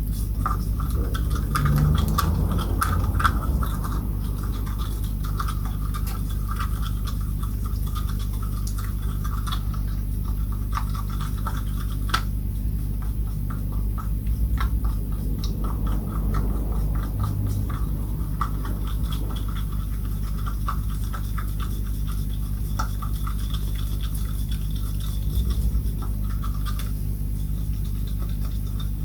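Scratchy rubbing and scrubbing strokes with small clicks from mixing and working water-based grain filler, over a steady low hum.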